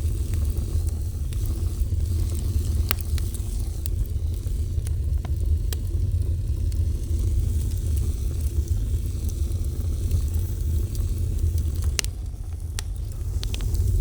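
Fire burning: a steady low rumble of flames with scattered sharp crackles and pops, several of them close together near the end.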